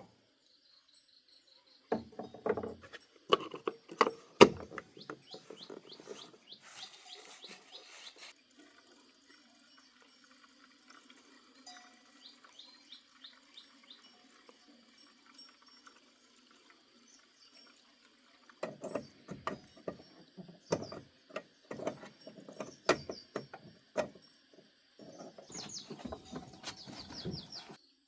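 Scattered knocks, clicks and rattles, with birds chirping in the background and a faint steady hum through the middle stretch.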